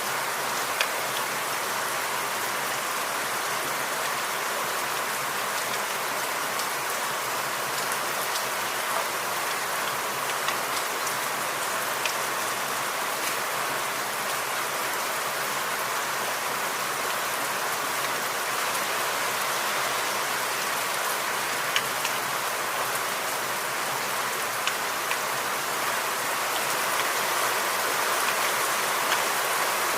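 Steady rain falling in a forest, with scattered sharper drop hits, growing slightly heavier near the end.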